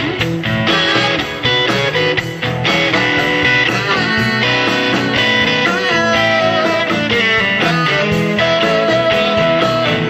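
Band music with a prominent guitar, a blues-rock style song playing steadily.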